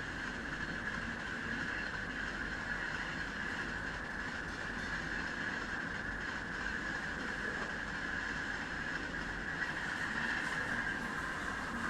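Train running at speed on the rails: a steady, even running noise that grows a little louder near the end.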